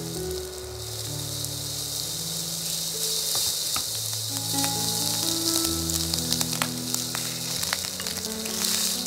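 Diced onion, garlic and ham sizzling in oil in a nonstick frying pan, stirred with a silicone spatula that clicks against the pan now and then. Soft background music with held low notes plays along.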